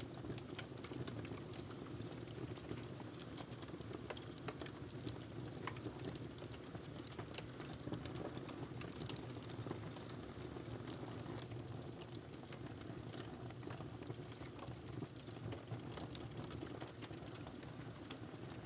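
Wood fire crackling in a fireplace: irregular sharp pops and clicks over a steady low rumble.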